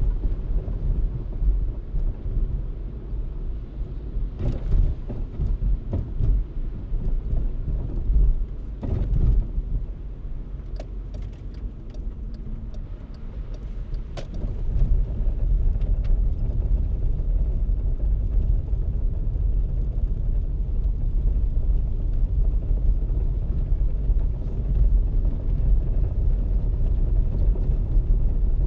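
Low, steady rumble of a car driving on snow-covered streets: tyre and road noise, with a few sharp clicks or knocks in the first half.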